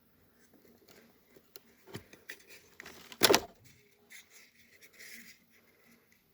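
Hand work on plastic car trim: scattered small clicks and rustles, with one sharp knock a little past three seconds in and a short scrape around five seconds, as the headlight adjustment switch and its surrounding dashboard panel are worked loose.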